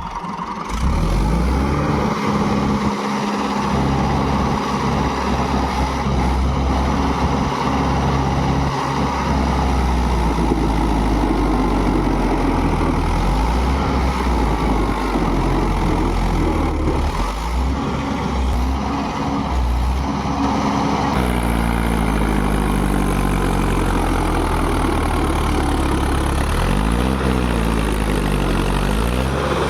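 Mahindra tractor's diesel engine running continuously under load while being driven in circles. Its pitch shifts about two-thirds of the way through, and it revs up and back down once near the end.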